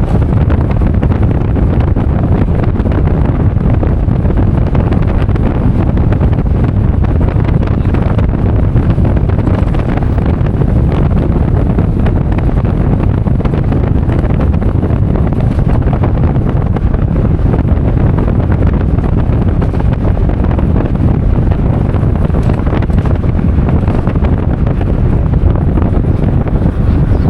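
Loud, steady wind rumble on the microphone from travelling in a moving vehicle.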